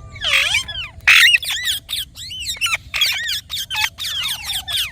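Indian ringneck parrot calling in a rapid string of short, harsh squawks, each bending up and down in pitch, with a longer call that slides down in pitch near the end.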